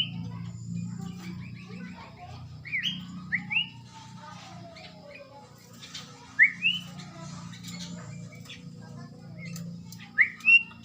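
Sooty-headed bulbul (kutilang) calling in short rising chirps, in twos and threes a few seconds apart, over a low steady background hum.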